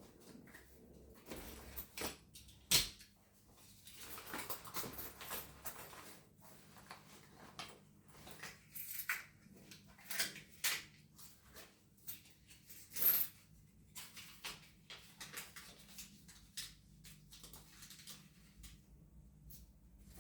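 Household objects handled during cleaning: irregular clicks, knocks and rustles, with two sharper knocks about three seconds in and about thirteen seconds in.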